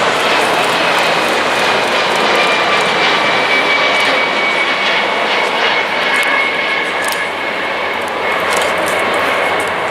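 Jet airliner passing close by on its landing approach, engines giving a loud, steady roar with a high whine that drifts slightly lower in pitch and fades a little near the end.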